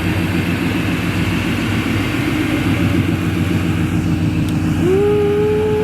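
Ford Mustang 5.0 V8 engines idling unevenly, held at the start line before a drag race. Near the end a single smooth tone rises and holds for about a second.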